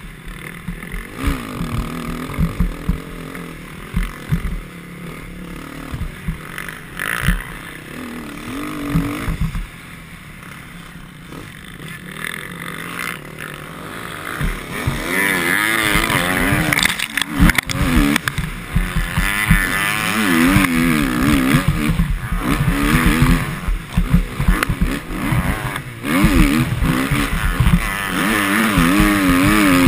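Motocross bike engine revving up and down repeatedly as it is ridden round the track, over a heavy low rumble. It is quieter in the first half and grows louder about halfway through.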